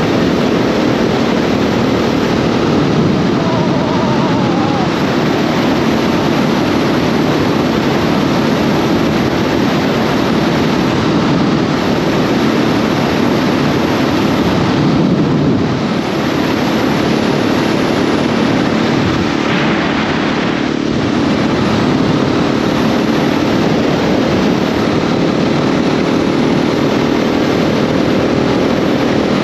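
KTM 690 SMC R's single-cylinder engine running at fairly steady revs while riding, under a steady rush of wind and road noise. The engine note eases briefly around the middle, then settles again.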